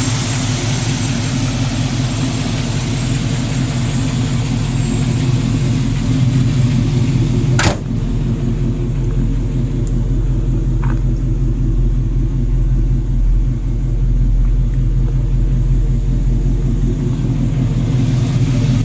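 Chevrolet 350 small-block V8 of a 1970 El Camino idling steadily, with a single sharp click about eight seconds in.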